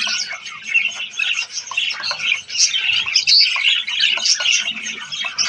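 A colony of zebra finches calling all at once: a dense, constant chatter of short, high, overlapping chirps.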